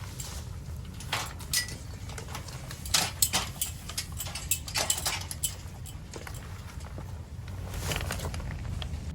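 Irregular sharp clicks and knocks, several close together in the middle, over a steady low rumble.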